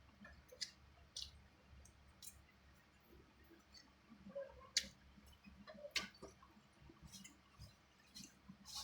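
Faint, irregular wet clicks and smacks of someone chewing and sucking on adobo chicken feet, with two sharper clicks near the middle.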